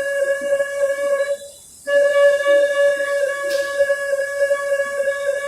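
Flute playing one long held note, stopping briefly about one and a half seconds in, then sounding the same note again, with breath hiss over the tone.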